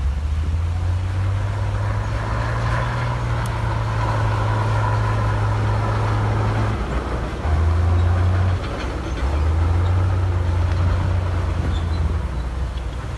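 Heavy diesel earthmoving machine running at work, a steady low engine drone that dips about seven seconds in and then comes back, louder for about a second and again a little later.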